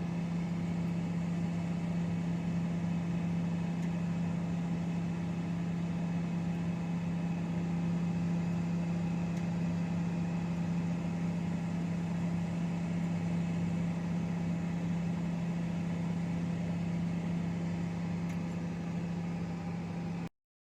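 Microwave oven running with a steady low hum that stops abruptly near the end.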